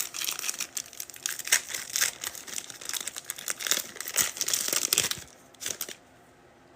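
Wrapper of a trading card pack being torn open and crinkled, a dense crackling that stops about five seconds in, followed by a few light ticks.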